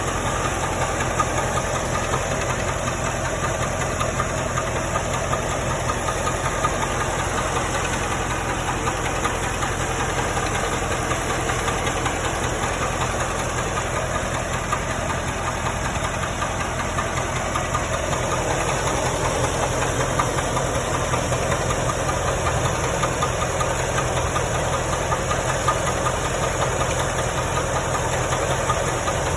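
Car engine running steadily with the knock of a rod bearing that has gone bad; the engine is due for an overhaul.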